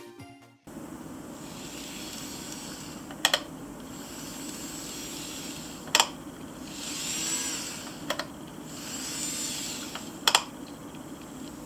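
Four sharp plastic clicks, each doubled and about two to three seconds apart, with soft rustling between them over a steady low hum: hard plastic parts of an N-gauge model train set being handled.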